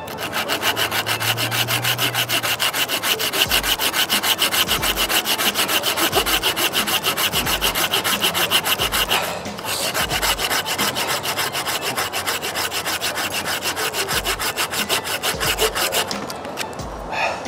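Hand saw cutting through a wooden log in fast, even back-and-forth strokes. It pauses briefly about nine seconds in, then stops shortly before the end.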